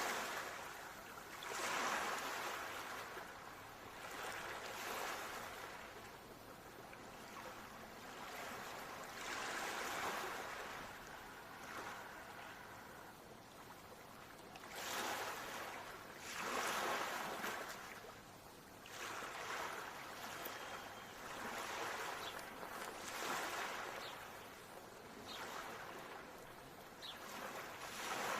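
Ocean waves breaking and washing on a shore, each surge swelling and fading away every few seconds, with no music heard.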